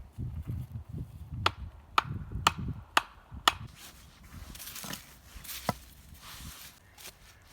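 Wood being chopped with a blade: five sharp strikes about half a second apart, then one more a couple of seconds later.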